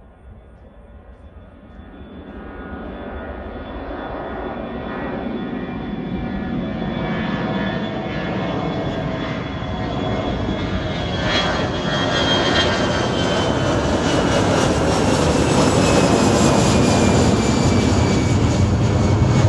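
Jet airliner's engines growing steadily louder for about fifteen seconds as the plane comes closer, then staying loud. A deep rumble runs under several high whining tones that slowly fall in pitch.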